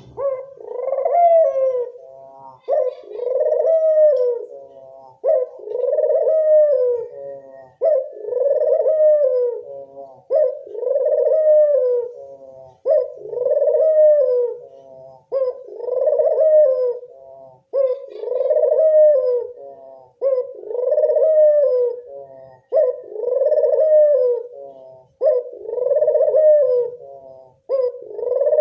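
Local puter dove cooing, one rising-then-falling cooing phrase repeated about every two and a half seconds: a dove lure call.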